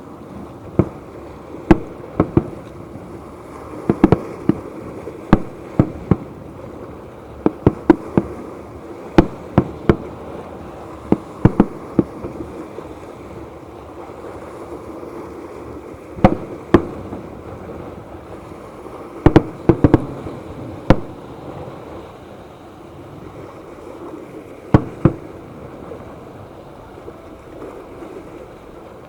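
Fireworks exploding in irregular sharp bangs, sometimes two to four in quick succession, over steady background noise. The bangs stop in the last few seconds.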